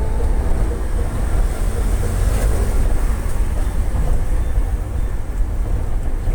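Steady low rumble of a vehicle on the move, with road and wind noise.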